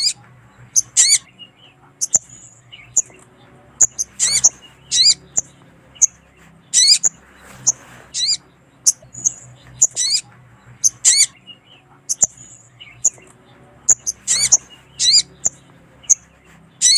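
Sogon (sogok ontong) bird calls from a lure recording: sharp, high chirps and short whistled notes, some bending in pitch, repeated in quick clusters every second or so. A faint low hum lies underneath.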